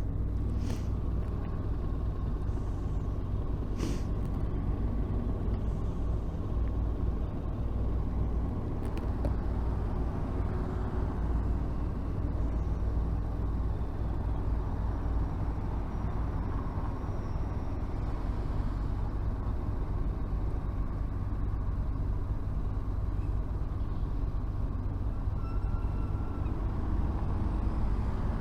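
A Honda VFR1200F's V4 engine runs low and steady among slow city traffic. There are two short hisses, about a second in and again about four seconds in.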